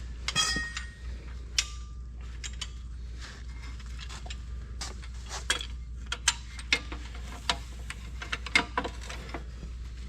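Irregular metallic clicks and knocks of hand tools and steel parts being worked on a corn head during reassembly, over a low steady hum.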